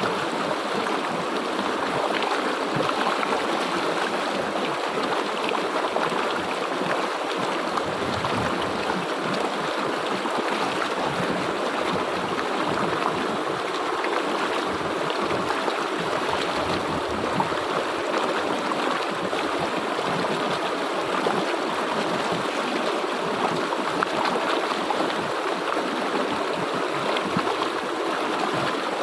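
A stream of water flowing steadily over rocks, an even rushing with small splashing flickers.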